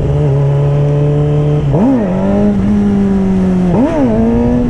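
2008 Suzuki GSX-R 600's inline-four engine through an M4 slip-on exhaust, running at a steady speed with a low wind rumble. Twice, about 2 and 4 seconds in, the revs rise quickly and drop back, each time settling a little higher.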